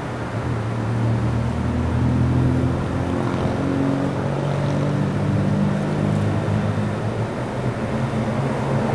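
An engine running steadily, its pitch drifting slightly up and down, over a steady hiss.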